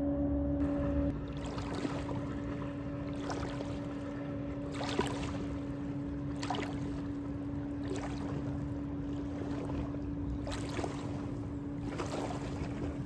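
Motorboat engine droning steadily out on the river, with its wake waves splashing against the bank several times, a second or two apart.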